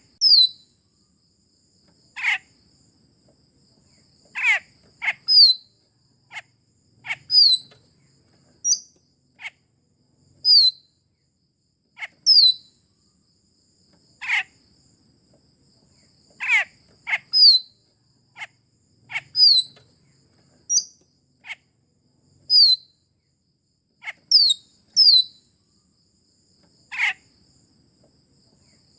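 Sulawesi myna (raja perling) calls played as a bird-lure recording: short, sharp calls that slide steeply down in pitch, repeated irregularly every second or two. A steady high insect-like whine runs beneath them.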